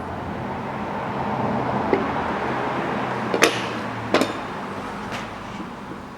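Metal parts knocking together as a cylinder head is fitted onto an engine block: three sharp knocks about two, three and a half and four seconds in, over a hiss.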